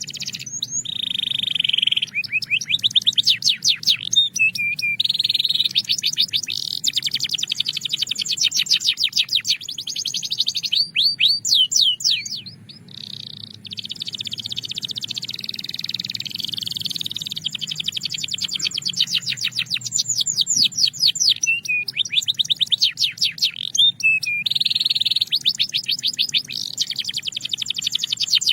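Belgian canary singing: long fast trills and rolls of rapidly repeated high notes, strung together with short breaks, with a brief softer stretch about twelve seconds in.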